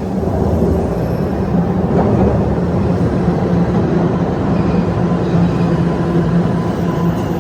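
TTC Line 1 Toronto Rocket subway train running through the station: a loud, steady rumble with a low motor hum, and a thin higher tone coming in near the end.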